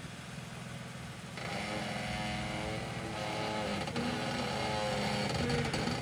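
Jeep engine running at crawling speed, revving up about a second and a half in as the vehicle works its way over a rock obstacle, its pitch rising and falling with the throttle.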